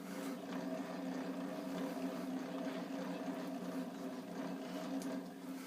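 Schaublin SV52 milling machine's knee being hand-cranked, its elevating gears and screw giving a steady whir that stops suddenly near the end.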